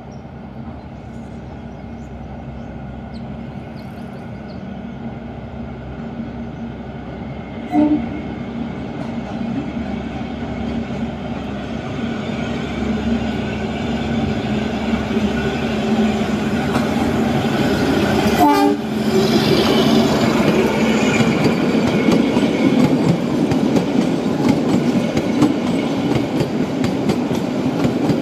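Kalka–Shimla narrow-gauge toy train approaching and passing, its running sound growing steadily louder. It gives two short horn toots, about 8 seconds and about 18 seconds in, and then its coaches roll close by with wheel clatter.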